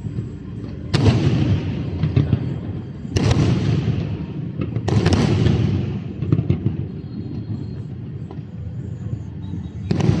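Aerial fireworks bursting overhead: four loud bangs, about a second in, near three seconds, near five seconds and near the end, each followed by a spreading crackle that fades away.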